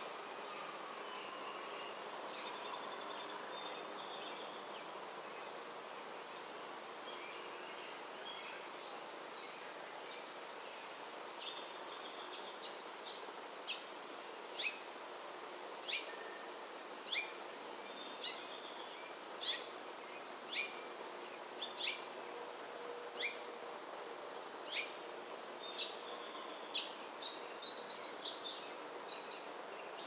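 Wild songbirds calling. After a brief harsh, high call about two and a half seconds in, one bird repeats a short, sharp down-slurred note about once a second, quickening into a rapid run near the end, over steady outdoor background noise.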